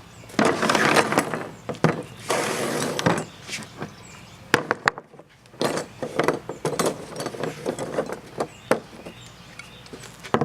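Cabinet parts and tools being handled on a work surface: knocks and clinks of wood and metal. Two longer rustling, scraping stretches come in the first three seconds, and scattered sharp clacks follow.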